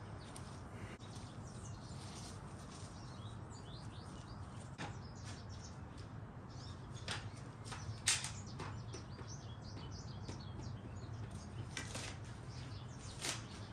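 Small birds chirping and twittering over a low steady hum, with a few short sharp clicks; the loudest click comes about eight seconds in.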